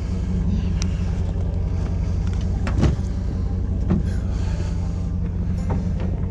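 Truck running steadily with a low engine and road rumble, with brief knocks about three and four seconds in.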